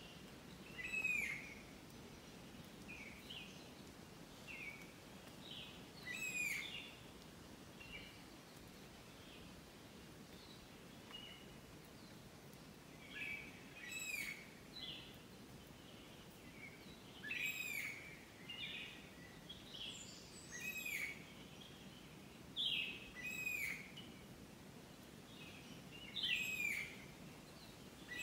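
Faint bird chirping: short high notes, many sweeping downward, recurring every second or two over a low steady hiss.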